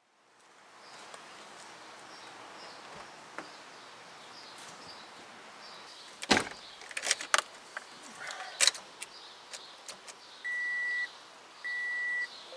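A few sharp clicks and knocks, as of a car door and its latch being handled, then the car's electronic warning chime beeping steadily at one high pitch about once a second.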